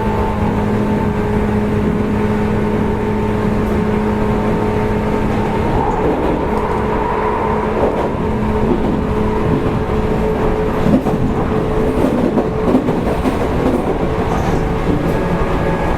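Interior running noise of a 185 series electric multiple unit's motor car at speed: a steady hum from the traction motors and gears over the rumble of the wheels on the rails. A few sharp knocks come from the track about eleven to thirteen seconds in.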